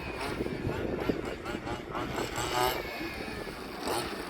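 5th-scale RC cars' small engines running around the track, their pitch rising and falling as they accelerate and ease off, with a marked rise about two and a half seconds in.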